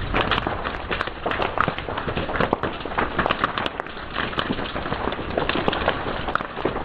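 Fire crackling steadily, with many sharp pops of varying loudness, several a second, over a low hiss.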